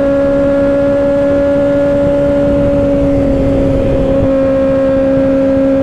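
Kawasaki Ninja ZX-6R 636's inline-four engine running at a steady cruising speed, holding an even tone that steps down slightly about three seconds in, with wind rushing over the rider's microphone.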